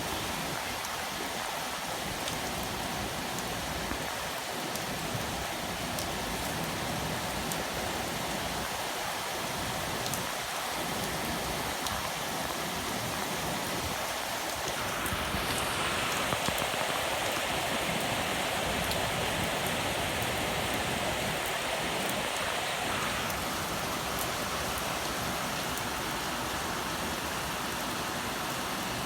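Heavy typhoon rain pouring steadily, with a spell of a few seconds about halfway through where the downpour grows louder before easing back.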